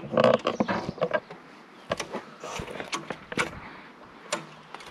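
Scattered sharp clicks and knocks of parts and tools being handled on a tractor, irregular and unevenly spaced, with a busier cluster right at the start.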